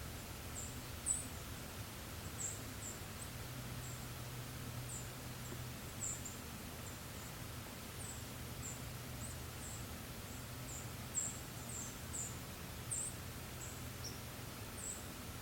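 Small forest birds giving short, very high-pitched chirps, scattered irregularly at about one or two a second, over a steady soft hiss and a faint low hum.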